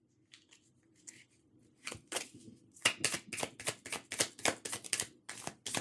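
A deck of tarot cards being shuffled by hand: a steady run of short card slaps, about three or four a second, starting about two seconds in.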